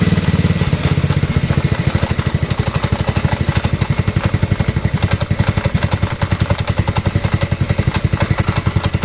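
150 cc 157QMJ scooter engine, a GY6-type single-cylinder four-stroke, idling with an even rapid beat of about a dozen pulses a second and a clattering knock from inside the engine.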